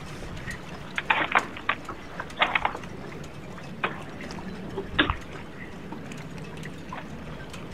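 Water splashing and lapping against a sailboat's hull over a steady rush of wind and water, with a few sharp clattering knocks about a second in, around two and a half seconds, and near five seconds.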